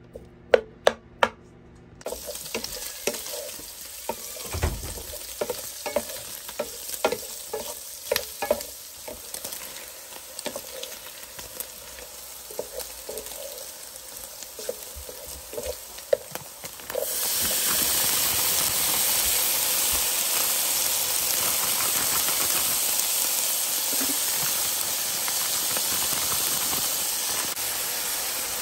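Diced Spam sizzling in a nonstick pan while a wooden spatula taps and stirs it, with sharp knocks in the first couple of seconds. About seventeen seconds in, the sizzle jumps to a loud, steady hiss as steamed riced cauliflower and vegetables go into the hot pan.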